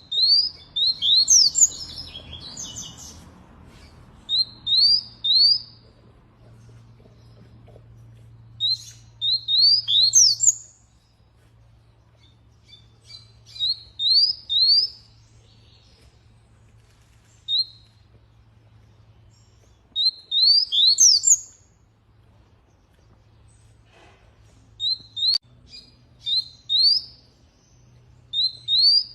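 Canary calling in short bursts of two to five quick rising chirps, repeated every few seconds with pauses between.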